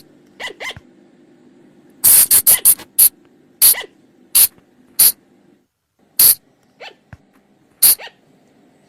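Sunda colugo (flying lemur) calling: about a dozen short, sharp, high-pitched shrieks, with a quick run of five about two seconds in and single calls spaced roughly half a second to a second apart after that. A faint steady low hum lies under them and drops out briefly near the middle.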